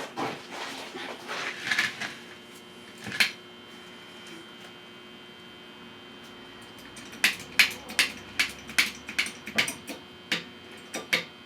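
A welder laying short tack welds on a steel exhaust hanger bracket. A few knocks and a clank come first, then a steady electrical hum, then about ten short sharp crackles, roughly two a second, in the second half.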